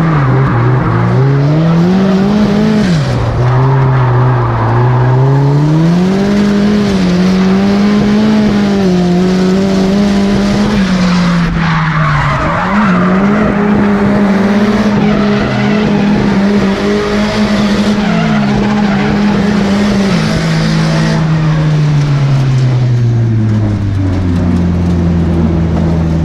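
Car engine held at high revs, its pitch rising and falling over and over as the throttle is worked, with tyres skidding through a drift. Near the end the revs fall away and settle at a lower steady note.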